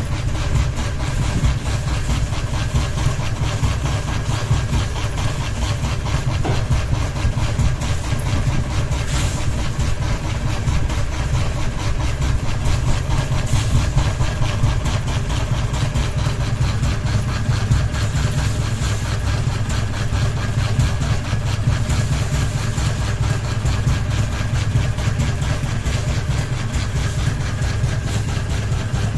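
Ceiling fan running with only one blade, so it is unbalanced and wobbles, giving a steady low hum with a fast, even pulse.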